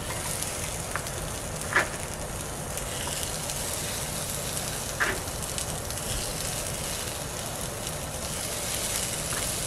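Chopped green bell pepper sizzling on a hot Dash Mini Griddle as the pieces are set on the plate: a steady frying hiss with a couple of brief clicks.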